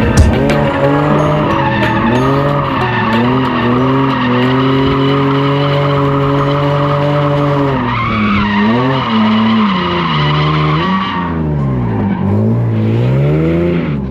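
Drift car on track, its engine held at high revs while the tyres squeal and skid through a long slide. About eleven seconds in the tyre noise dies away and the engine revs fall and rise several times.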